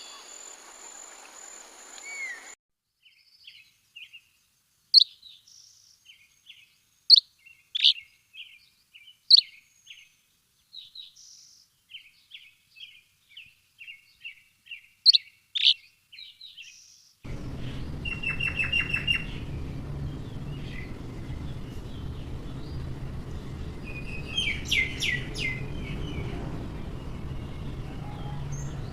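Small birds calling: a scatter of short chirps with a few sharp, loud high notes against a quiet background. After an abrupt change in the recording, a rapid trill and then a quick run of falling chirps sound over a steady low background rumble.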